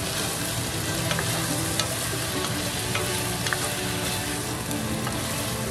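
Chicken thighs and sliced onions sizzling steadily as they fry in a nonstick pan, stirred with a spatula that scrapes the pan and taps it sharply a few times.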